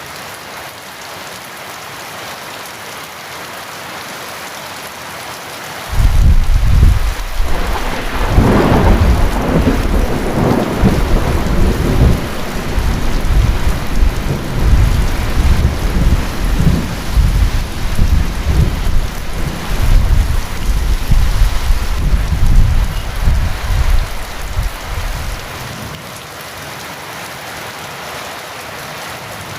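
Heavy rain falling steadily, with a long, deep roll of thunder that starts suddenly about six seconds in, peaks soon after and rumbles on for nearly twenty seconds before fading back to the rain alone.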